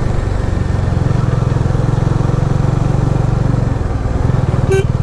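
Motorcycle engine running steadily at low revs, its exhaust pulses coming quickly and evenly, with a brief click near the end.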